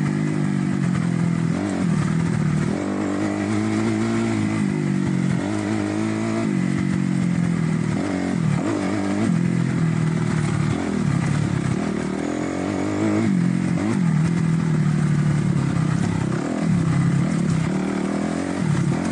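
A 2008 Kawasaki KX250F dirt bike's single-cylinder four-stroke engine running under way, its revs rising and falling again and again as the throttle is opened and closed.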